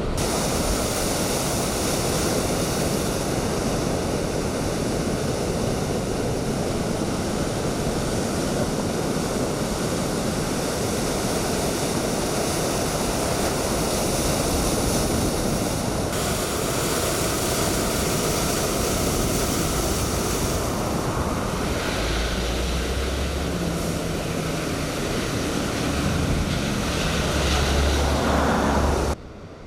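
Typhoon-force wind and storm surf: a steady, loud rush of wind and breaking waves. The sound changes abruptly twice, at about 16 and 22 seconds in, and a deep low rumble of wind on the microphone comes in for the last several seconds before the sound drops away sharply.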